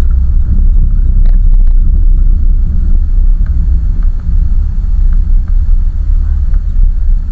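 Land Rover Freelander 1 Td4's BMW M47R four-cylinder turbodiesel under way, a steady low rumble of engine and running gear.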